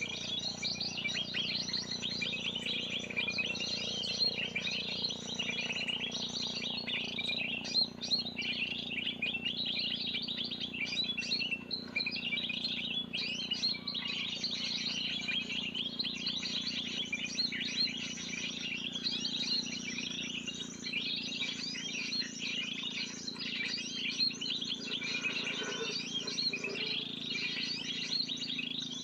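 Many small birds chirping and chattering at once in a dense, unbroken stream of rapid high calls: a 'burung ribut' (noisy birds) lure call used to draw in birds such as spiderhunters.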